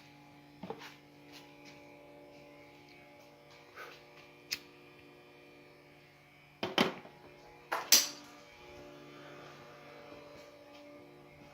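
A steady electrical hum made of several tones, broken by a few light clicks and two louder sharp knocks about seven and eight seconds in.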